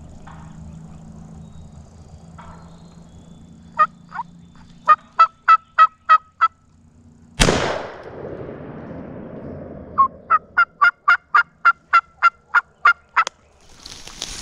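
Series of turkey yelps, then a single shotgun blast, the loudest sound, about seven seconds in, as a longbeard gobbler is shot. A few seconds later comes another run of about a dozen quick yelps at roughly four a second.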